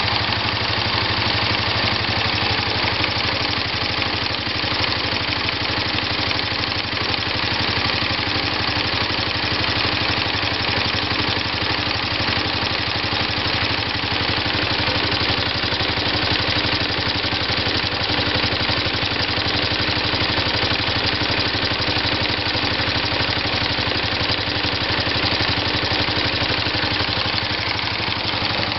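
Honda 125 engine converted to a rotary disc valve, driven by an intermittent rotary motion mechanism, idling steadily at tickover with a fast, even beat.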